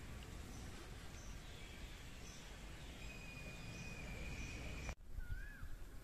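Faint outdoor background noise with small, high bird chirps repeating. Near the end comes a short whistled bird call that rises and falls.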